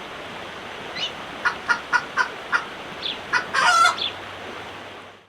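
Chickens clucking in a run of short calls, with a louder, longer squawk a little over three and a half seconds in, over a steady background hiss.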